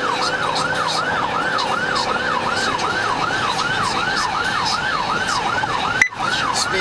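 Police car siren wailing in a fast yelp, its pitch sweeping up and down about three times a second, over road noise during a pursuit. A sharp click and a brief dropout about six seconds in.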